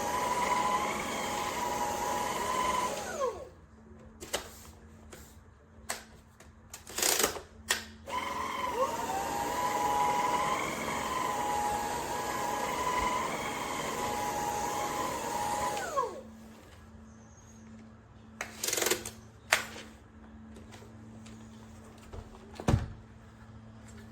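Cordless stick vacuum cleaner's motor running with a steady whine, winding down about 3 s in, then spinning up again with a rising whine about 8 s in, running, and winding down near 16 s. Clicks and knocks of the vacuum being handled come between and after the runs.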